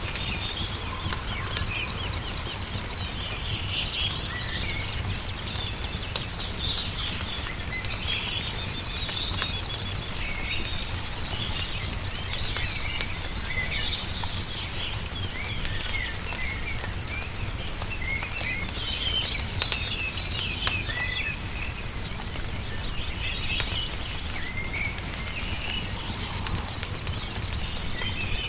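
Small birds chirping in short, scattered phrases over the sharp pops and crackles of a wood fire, with a steady low rumble underneath.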